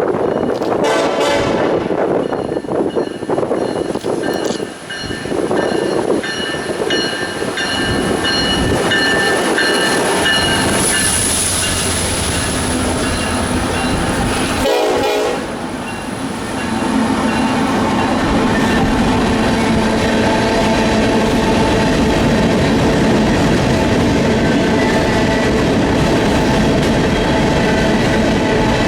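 Freight locomotive's air horn sounding over the approaching train, then the train running past with a steady rumble and clatter of wheels on the rails.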